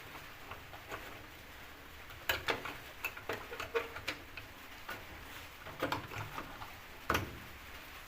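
Irregular clicks and light knocks from handling a washing machine's water hose and fittings, with sharper knocks about two seconds in and again near the end.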